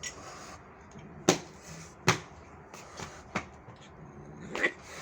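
Four sharp knocks or taps, unevenly spaced, over low background noise.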